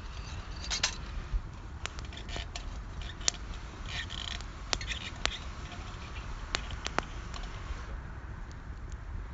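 Irregular sharp clicks and pops, with two short bursts of scraping or rustling, over a steady low rumble.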